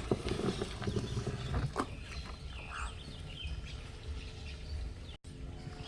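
Outdoor ambience: a steady low rumble with a few sharp knocks in the first two seconds and short bird chirps in the middle. The sound drops out for an instant near the end.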